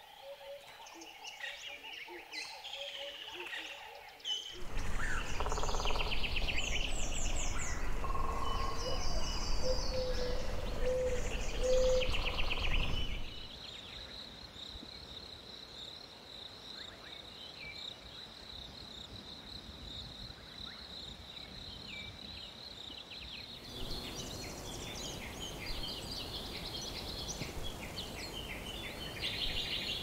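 Tropical forest ambience: many birds chirping and calling, with a steady high insect whine through the middle stretch and a low rumble under the louder first part. The background changes abruptly a few times, about 4 seconds in, about 13 seconds in and near the three-quarter mark.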